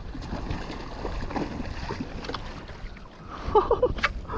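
Wind rumbling on the microphone and water lapping around a kayak, with faint scattered ticks and one sharp click near the end.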